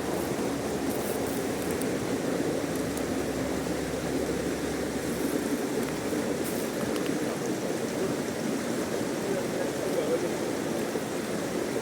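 Fast-flowing river rushing steadily, a continuous even noise with no breaks.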